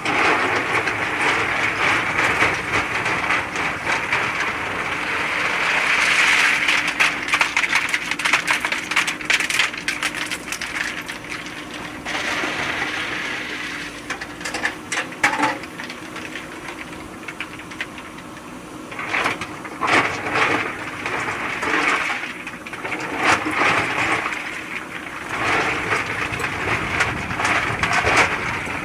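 JCB 3DX Super backhoe loader working: its diesel engine runs steadily under repeated bursts of clattering and scraping, with a quieter stretch in the middle.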